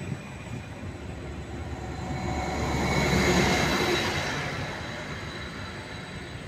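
Greater Anglia Stadler FLIRT multiple-unit train arriving and rolling slowly past along the platform. Its running noise swells to a peak about three seconds in and then eases off.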